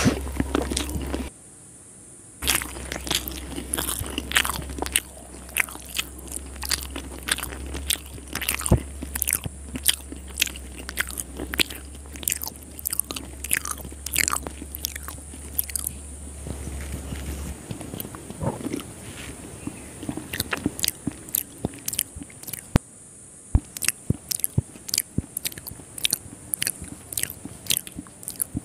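Close-miked mouth sounds of chewing soft, syrupy Indian sweets: a steady run of wet clicks and smacks from the lips and tongue.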